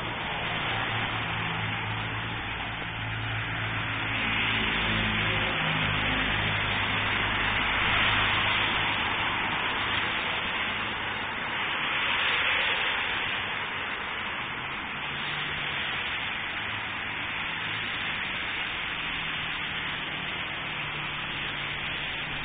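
Steady hiss of rain falling on a wet street, swelling a few times as cars pass on the wet road, with a low hum underneath.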